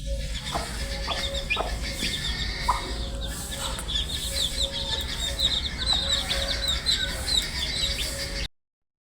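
A flock of baby chicks peeping, many short falling peeps overlapping over a steady low hum; the sound cuts off abruptly near the end.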